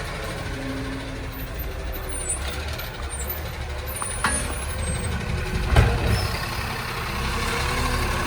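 Recycling garbage truck running with a steady low engine rumble, with a sharp click about four seconds in and a loud bang shortly before six seconds.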